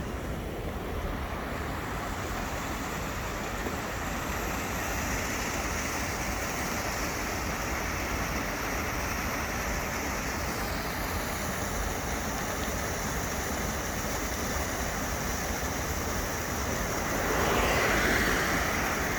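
Steady rushing of a flowing mountain stream, mixed with wind. A louder rush swells and fades about two seconds before the end.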